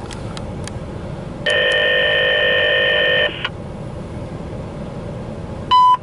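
Scanner radio sounds: a loud steady chord of several fixed tones for about two seconds, then a short sharp beep near the end, just ahead of a CSX defect detector's announcement. A low rumble with scattered clicks runs underneath.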